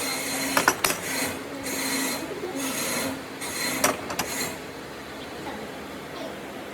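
Wood being rubbed with an abrasive by hand in long strokes, a little over one a second, with a few light knocks among them; the strokes stop a little past halfway.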